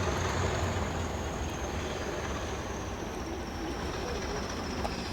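A train moving at the platform: a steady rumble with a thin high whine that rises slightly and then eases.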